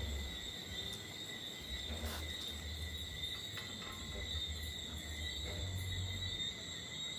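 Night insects, likely crickets, trilling steadily in a continuous high chorus, with a low rumble that comes and goes underneath.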